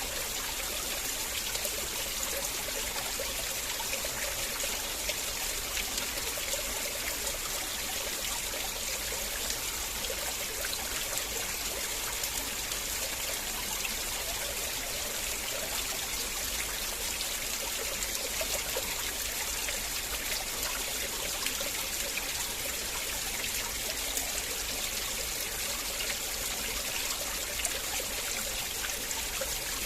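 River water flowing and trickling steadily, an even rushing with no change.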